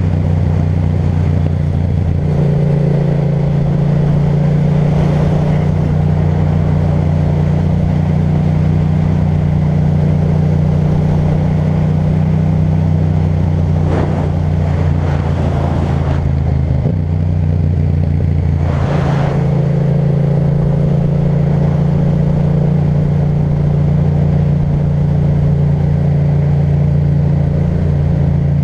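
Yamaha MT-07's parallel-twin engine through an Akrapovic titanium exhaust, running steadily at an even cruising speed. Its note shifts slightly about halfway through, and two short whooshes of noise pass a few seconds apart near the middle.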